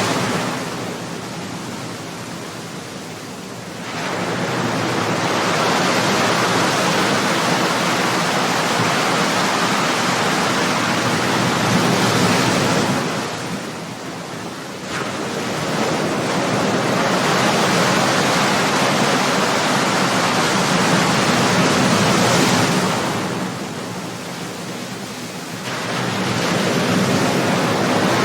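Ocean waves breaking and surf rushing onto the shore, a steady loud wash that eases off three times and surges back about every ten seconds as each new wave comes in.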